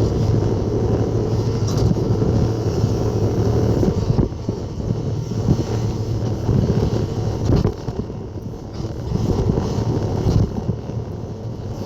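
Skid steer engine running steadily, its level dipping and swelling a few times as the machine works.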